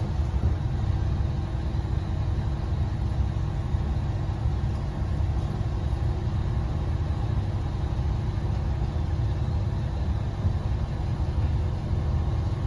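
Kanto Railway KiHa 2100 diesel railcar's engine idling with a steady low rumble and a faint hum, running again after a stall.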